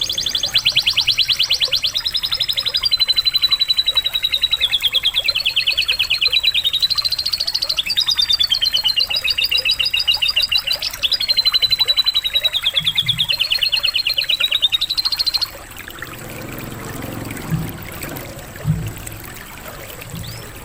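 Canary singing a long song of rapid rolled trills that shift in pitch and speed every second or two, stopping about fifteen seconds in. After it, water trickles and pours with a few low thumps.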